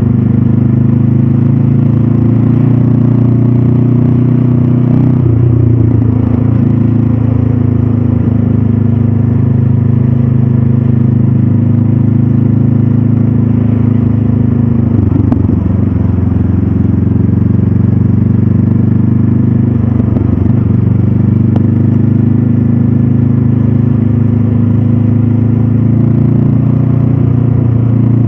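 Stock 2022 Honda CB500F's parallel-twin engine and exhaust running at a steady pace, its pitch briefly wavering a few times as the throttle changes.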